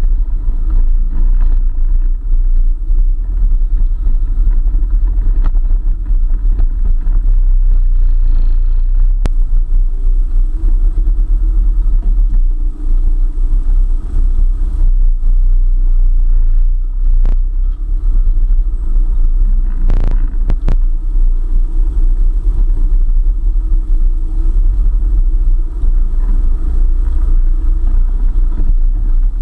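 A 4x4 driving along a forest track: steady low engine and road rumble, with a few short knocks.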